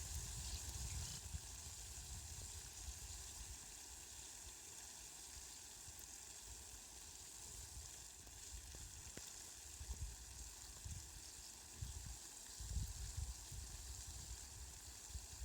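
Steady hiss of falling rain, with low rumbles coming and going in the second half.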